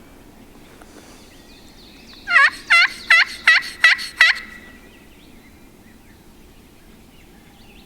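A crow locator call blown close by: six loud, harsh caws in about two seconds, each dipping and rising in pitch. The call is used to startle a turkey gobbler into a shock gobble.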